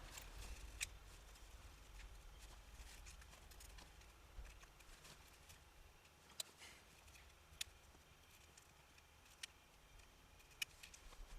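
Near silence with a low hum, broken by a handful of short, sharp clicks spaced a second or more apart.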